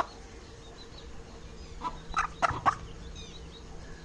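Aseel chicken clucking: a quick run of about four short, sharp calls about two seconds in, with faint high chirps after them.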